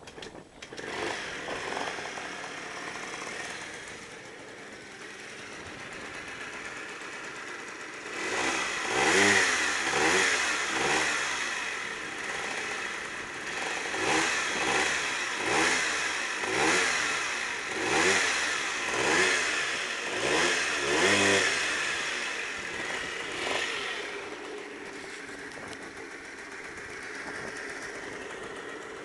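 Small two-stroke scooter engine idling, then revved in a series of about a dozen short throttle blips, each rising and falling in pitch, before settling back to idle.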